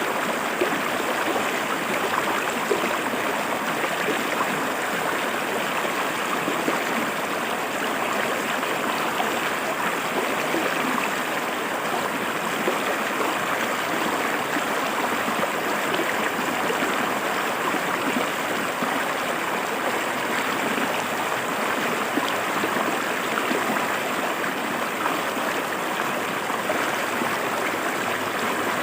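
River water flowing and splashing over rocks, a steady rushing with small irregular splashes.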